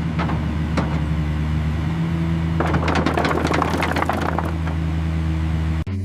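A heavy vehicle engine running with a steady low hum. A burst of rattling noise lasts about two seconds in the middle, and the sound cuts off and changes abruptly just before the end.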